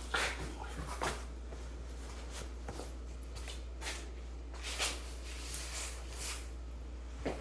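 Faint handling noises while working under a car: scattered short clicks, scrapes and rustles, a few seconds apart, over a steady low hum.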